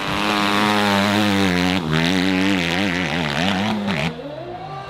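Dirt bike engine revving hard on a hill climb, its pitch rising and falling quickly as the throttle is worked; it drops away suddenly about four seconds in.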